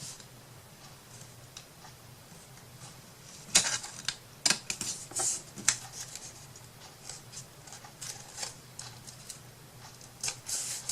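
Paper being handled by hand in crafting: scattered short rustles and light clicks, starting about three and a half seconds in after a quiet stretch.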